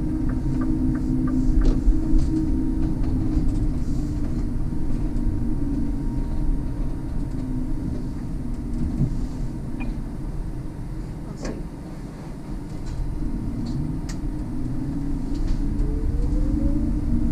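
Electric bus running with a steady low hum and rumble heard from inside the cab. Near the end a thin whine from the electric drive motor rises in pitch as the bus pulls away on a hill start.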